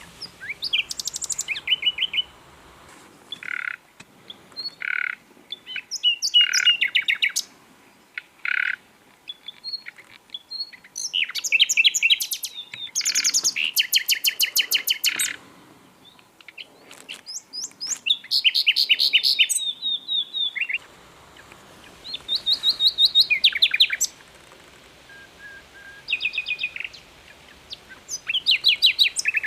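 Common nightingale singing a string of varied phrases with short pauses between them: fast trills of rapidly repeated notes, and several single plain whistled notes near the start.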